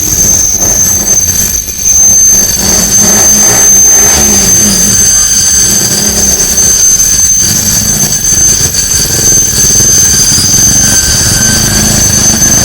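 KTM motorcycle engine running loud through a newly fitted aftermarket exhaust, the revs rising and falling.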